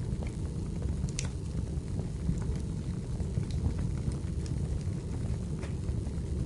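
Wood fire burning in a fireplace: a steady low rumble of flames with scattered sharp crackles and pops of the burning firewood, about one a second.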